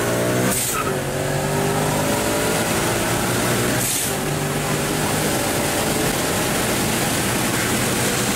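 Supercharged Ford 5.0 Coyote V8 at full throttle, heard from inside the car, its note rising in pitch through two quick upshifts, about half a second in and about four seconds in. The note fades into wind and tyre noise near the end as the driver lifts. It is a hard pull, with none of the power loss that earlier pulls showed.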